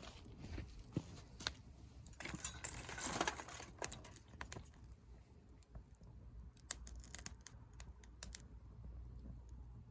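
Wood fire in a fire-pit stand, faintly crackling and popping with scattered sharp clicks. A denser crinkling rustle comes a couple of seconds in and lasts about a second and a half.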